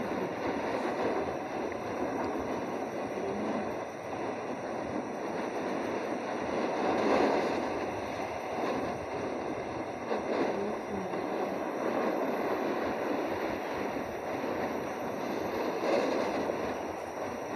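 Strong wind rushing over the microphone, rising and falling in gusts, loudest about seven seconds in and again late on.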